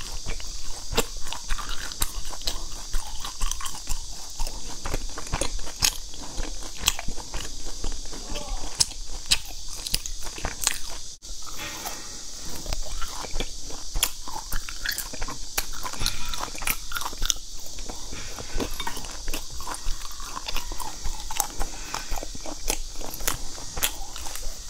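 Close-miked biting and chewing of crispy fried sesame balls: dense, irregular crunches and wet mouth clicks over a steady hiss.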